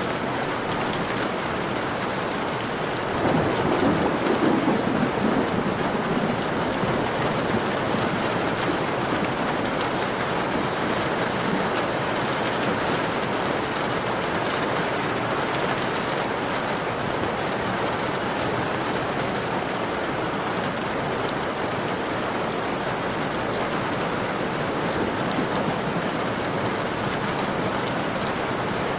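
Steady rain falling on a window pane, with a low rumble of thunder swelling about three seconds in and fading over a few seconds.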